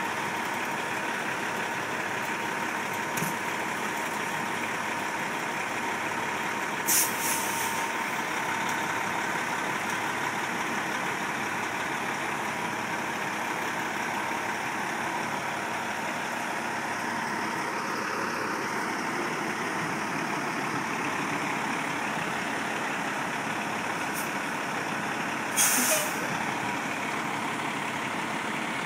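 Heavy vehicle engine running steadily, with two short hisses of released air, about seven seconds in and again near the end.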